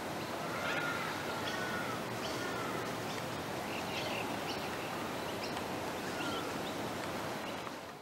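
Birds calling over a steady outdoor hiss: short high chirps scattered throughout and a few gliding, rising-and-falling whistles, near the start and again later.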